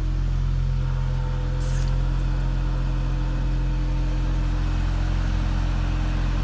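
2018 Dodge Challenger idling after a cold start: a steady low exhaust drone with a fainter steady whine above it, the noise the owner is checking out. A brief hiss comes about a second and a half in.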